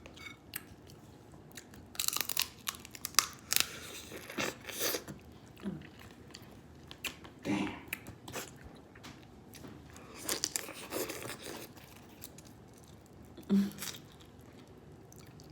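Blue crab shells cracking and crunching while being eaten, with chewing, in irregular clusters of crackling bursts separated by short pauses.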